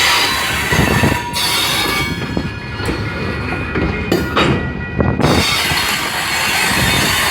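Train 568's railcars rolling past, their wheels rattling on the rails with a steady high-pitched wheel squeal over the clatter.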